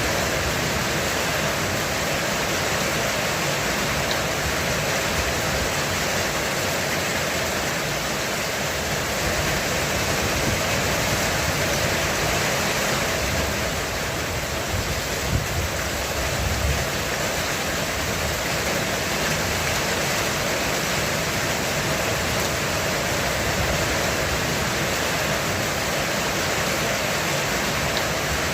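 Heavy rain falling steadily on a roof, a dense, even hiss. A short low rumble rises under it about halfway through.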